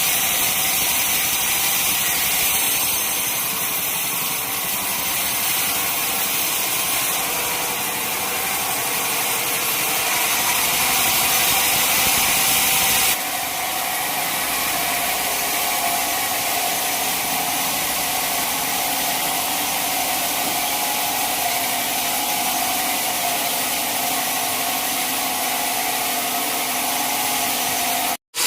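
Band sawmill running with a steady loud hiss and a whine. The sound changes abruptly about halfway through and cuts out for a moment near the end.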